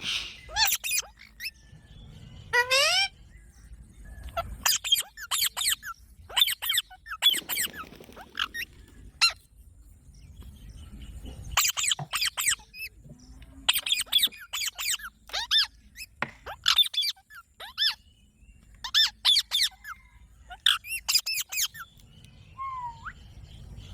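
Green parrots calling: sharp, shrill high-pitched squawks in quick runs of several, with pauses of a second or two between runs.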